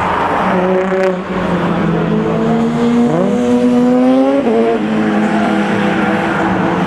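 Car engine running, revved up sharply about three seconds in and dropping back a second and a half later.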